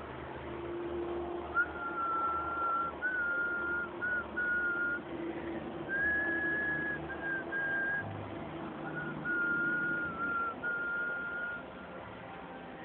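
A person whistling a slow tune: a series of clear, held notes with short breaks between them, stepping up once to a higher note and back down.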